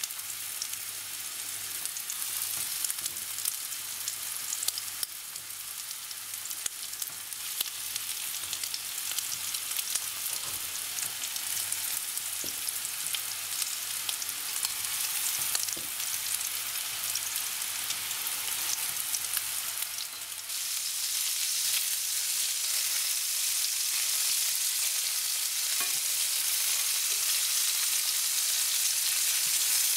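Breaded chicken-and-pumpkin cutlets frying in hot vegetable oil in a well-preheated pan: a steady crackling sizzle full of small pops, the high-heat searing that forms the crust. The sizzle gets louder about twenty seconds in.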